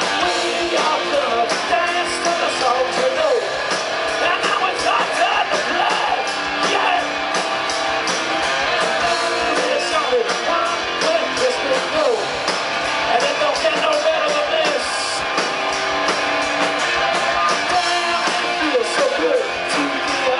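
Live rock band playing a song loud, with electric guitar, a steady drum beat and sung vocals.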